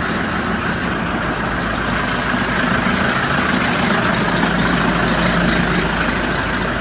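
Case IH Farmall 120C tractor's diesel engine idling steadily just after a cold start in sub-zero weather.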